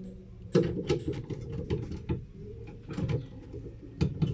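Irregular clicks and knocks of tools and parts being handled during washing-machine repair work, over a steady low hum.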